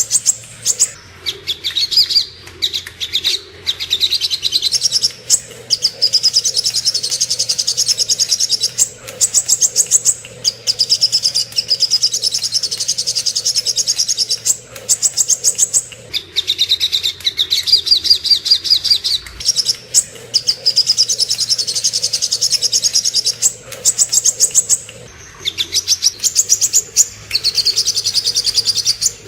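Sogok ontong bird singing: long runs of rapid, high-pitched repeated notes in fast chattering trills, broken by brief pauses.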